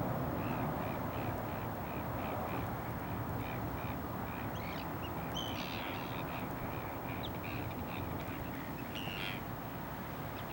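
Birds calling: a run of short calls repeated evenly about three times a second, with a few higher, sharper calls mixed in partway through and near the end, over steady background noise.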